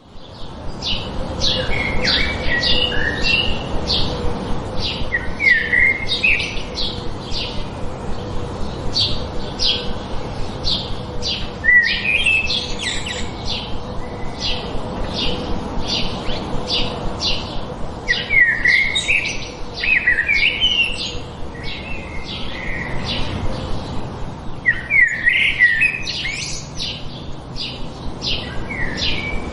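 Songbirds chirping: a steady run of short, sharp high chirps, about two or three a second, broken every few seconds by brief warbled phrases.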